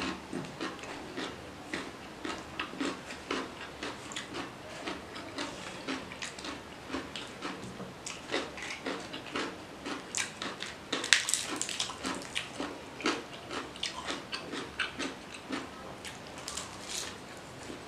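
Close-up eating sounds of a person eating rice and curry by hand: wet mouth clicks and smacks of chewing, a few a second, with a louder crisp crackle about eleven seconds in.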